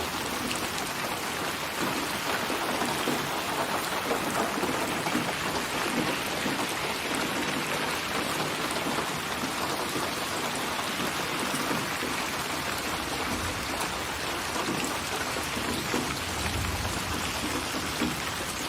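Steady rain falling and pattering on surfaces, an even hiss of drops throughout. A brief low rumble of thunder comes near the end.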